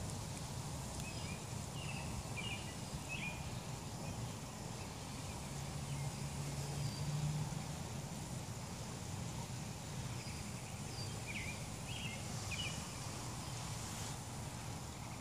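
Outdoor ambience: a steady low background rumble, with a small bird chirping in short groups of quick notes twice, near the start and again near the end.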